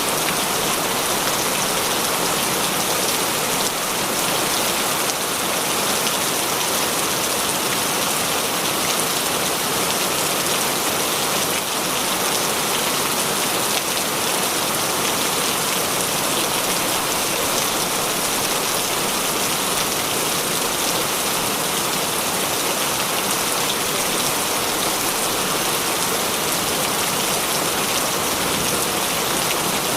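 Heavy rain falling steadily, an even hiss of rain without thunder.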